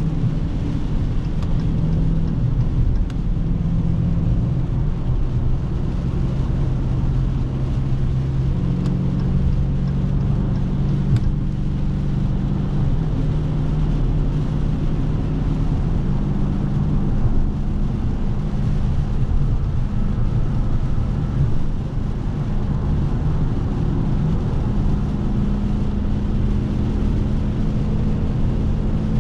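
Dodge Scat Pack's 392 HEMI 6.4-litre V8 running at a steady, low cruising pitch, the pitch changing in steps a few times as the car accelerates and changes gear, with brief dips in level at two of the changes.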